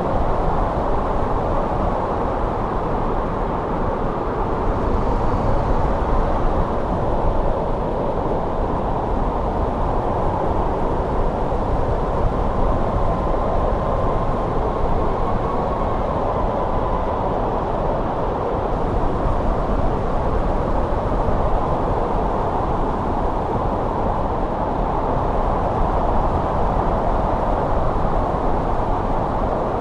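Winter wind blowing steadily in a low, even rush, with a faint thin whistle about halfway through.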